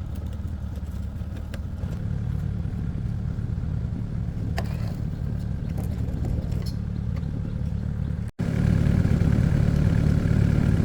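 Excavator's diesel engine running steadily, with a few light clatters; after a brief dropout about eight seconds in, it runs louder.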